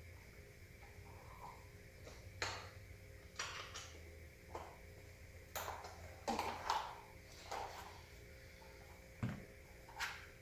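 A string of sharp clicks and knocks, about nine in all at uneven intervals, from office-chair parts being handled and fitted during assembly.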